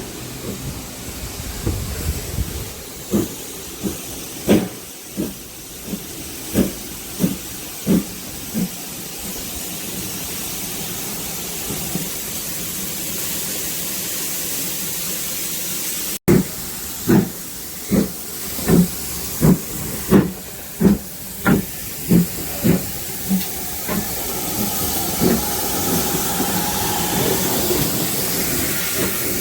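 Steam locomotive working, its exhaust beating in sharp chuffs of about one and a half to two a second over a steady hiss of steam. The chuffing dies away after about eight seconds, leaving the hiss. After an abrupt break it starts again, quicker, then fades to softer beats under a rising hiss.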